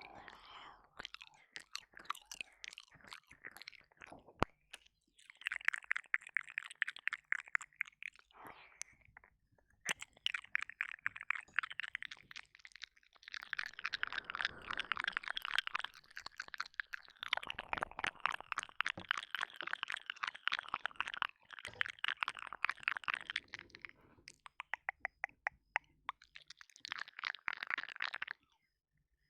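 Wet mouth sounds of ear licking and ear eating: close-up licking, smacking and sucking on a 3Dio binaural microphone's ear, as dense runs of tiny wet clicks with short pauses between them.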